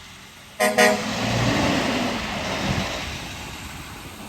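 A delivery truck's horn toots twice in quick succession, followed by the truck's engine running as it drives off, growing gradually fainter.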